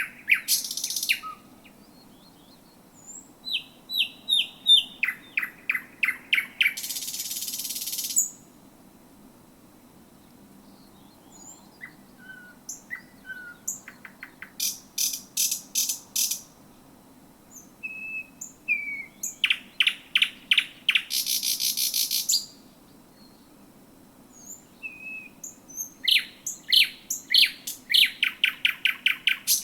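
Thrush nightingale singing at night: phrases of fast repeated notes and dry clicking rattles, some pure whistled notes between, with short pauses between phrases. A faint steady low hum lies underneath.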